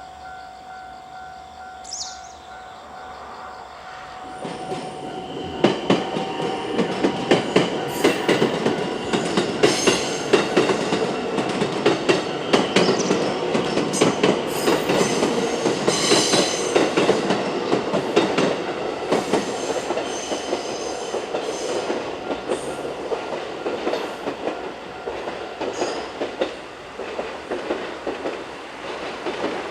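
Level-crossing warning bell ringing steadily for the first few seconds. Then a JR 223 series electric train passes, its wheels clattering in a steady rhythm over the rail joints for about twenty seconds before it dies away near the end.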